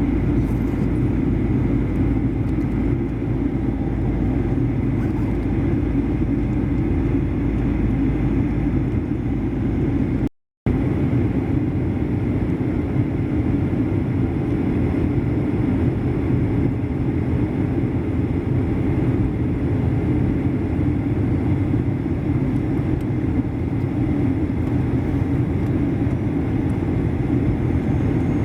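Steady roar of a Boeing 737-800's CFM56 engines and airflow heard inside the cabin, strongest as a deep rumble. A brief dropout about ten seconds in, after which the lowest rumble is lighter.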